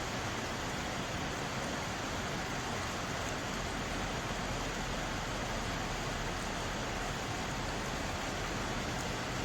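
Water of a mountain valley stream flowing, a steady, even rush with no breaks or separate splashes.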